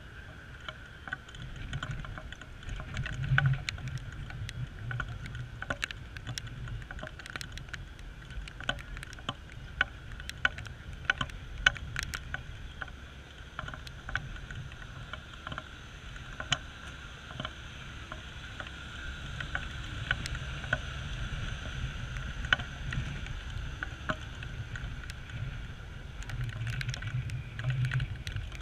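Raindrops tapping irregularly on the camera housing, many small clicks a second, over a steady low rumble.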